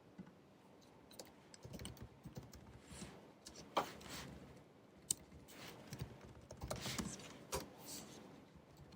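Typing on a 2019 16-inch MacBook Pro's scissor-switch keyboard: irregular, uneven keystrokes, quiet for the first second or so, then bursts of keys with a few sharper, louder clicks.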